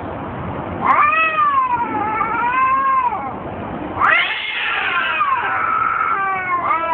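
Two cats caterwauling at each other in a fight: long, wavering yowls, one starting about a second in, another about four seconds in, and a third beginning near the end.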